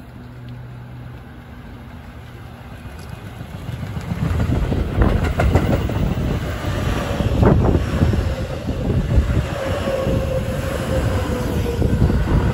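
Electric commuter train running past close by, its rumble building up a few seconds in, with the wheels knocking over rail joints and a steady whine through the middle.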